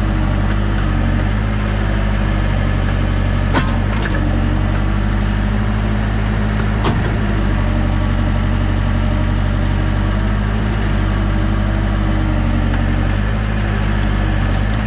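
Heavy equipment engine running steadily at a constant speed while clearing land, with two sharp knocks, one a few seconds in and another about halfway through.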